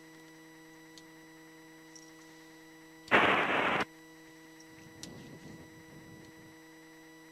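Steady electrical hum on an aviation radio feed. About three seconds in, a short loud burst of static lasting under a second breaks through, as a transmission keys up, and faint garbled radio speech follows.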